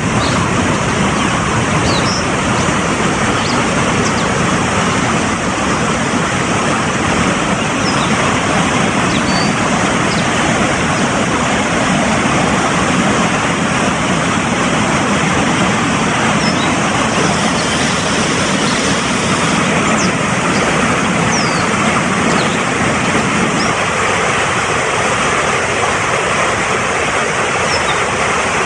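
Fast-flowing mountain stream rushing steadily, with faint, brief high bird chirps and whistles now and then above the water.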